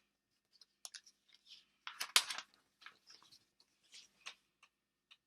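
Paper book page being handled and turned: a scatter of soft papery rustles and clicks, loudest about two seconds in.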